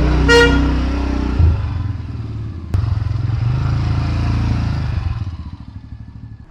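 Small motor vehicle engine running while driving, with a short high beep just after the start and a sharp click a little before halfway; the engine sound fades away near the end.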